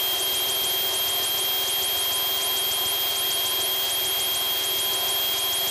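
Steady engine and airflow noise inside a Piper Tomahawk's cockpit in cruise, heard through the headset intercom, with a thin steady high-pitched whine.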